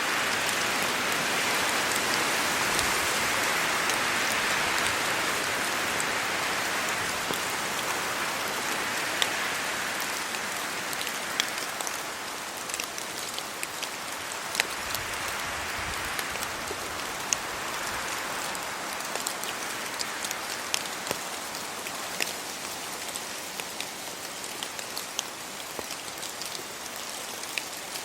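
Steady rain falling on leaves and the road, a constant hiss with many close raindrops ticking sharply over it. The rain eases slightly about halfway through.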